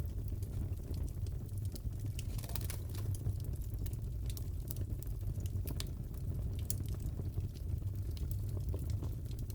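Wood fire crackling in a fireplace: a steady low rush of flame with many small, sharp pops and snaps scattered through it.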